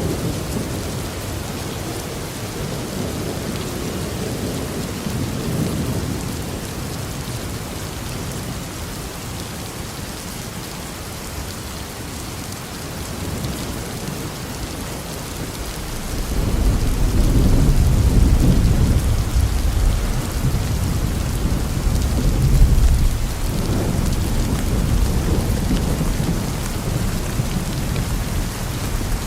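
Steady heavy rain with rolling thunder. The rumbles swell near the start and again from a little past halfway, loudest about two-thirds of the way through.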